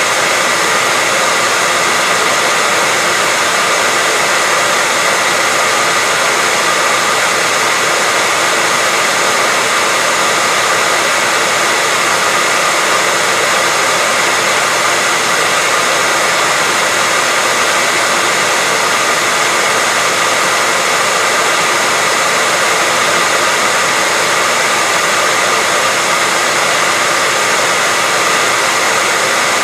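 Hair dryer blowing steadily: an even, unbroken rush of airflow with a faint steady motor whine in it.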